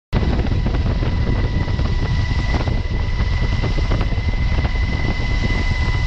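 Aircraft running loud and steady: a heavy low rumble with a fast flutter and a thin steady whine above it, starting abruptly.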